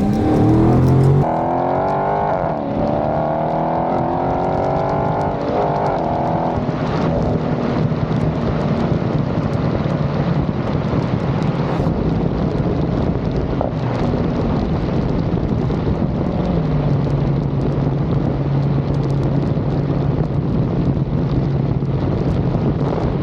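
Dodge Scat Pack's Hemi V8 through an aftermarket exhaust, accelerating with its note climbing in pitch over the first several seconds, then a steady low drone at cruise that drops lower about two-thirds of the way through.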